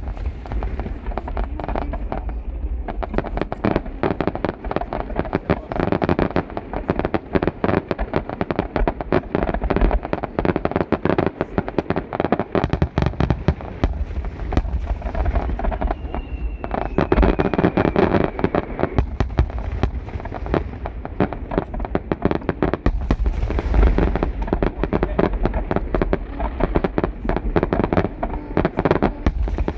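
Fireworks finale: a dense, continuous barrage of aerial shell bursts and crackling, the bangs overlapping without a break.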